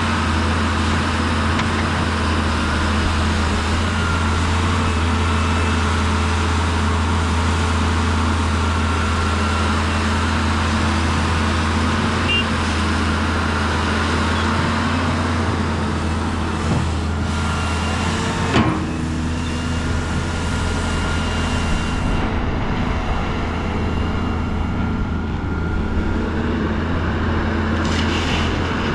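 Heavy diesel engine of earthmoving machinery running steadily with a low drone, with a couple of short knocks a little past the middle.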